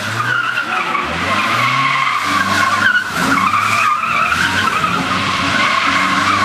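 Car tyres squealing almost without break as the car slides around cones, the squeal wavering in pitch, over an engine revving up and dropping back several times.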